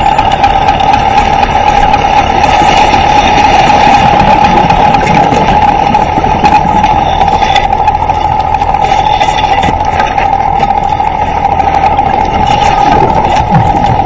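A boat engine running steadily, with a strong even hum over a rushing noise.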